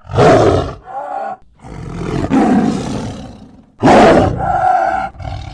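A large wild animal giving a series of loud, rough roars: about four calls, the longest in the middle and a sharp loud one about four seconds in, the last trailing into a higher held tone.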